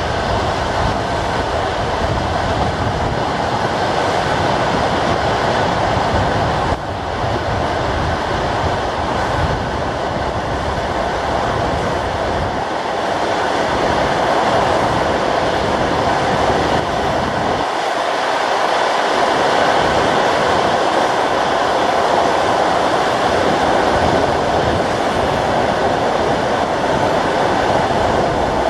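Passenger train running at speed on the Trans-Siberian main line: a steady, loud running noise of wheels on rails, heard at a carriage window.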